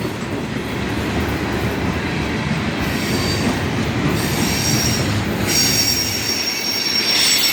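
Freight cars of a long manifest train rolling slowly past, a steady rumble of steel wheels on rail. Thin, high-pitched wheel squeal comes in about three seconds in and grows stronger past the middle.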